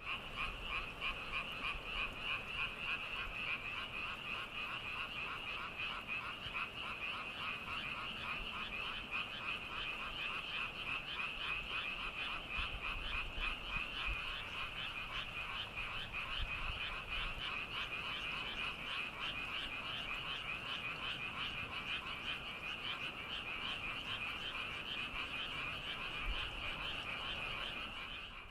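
Chorus of many frogs calling at once, a dense, steady rapid pulsing that fades out at the end.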